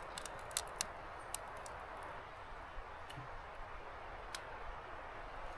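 Wood fire crackling: several sharp pops in the first second or so and another around four seconds in, over a steady soft hiss.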